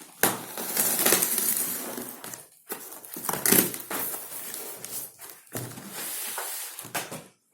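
Packaging rustling and crinkling as an opened box of shower fittings is unpacked, with several sharp clicks and knocks of parts being handled.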